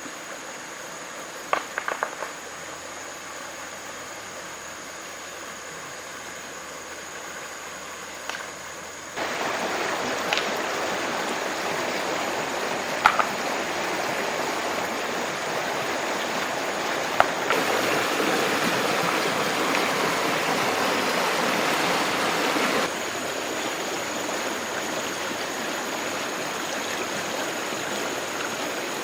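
Steady rushing of running water. It gets louder about nine seconds in and again about halfway through, then eases slightly near the end, with a few sharp clicks scattered through.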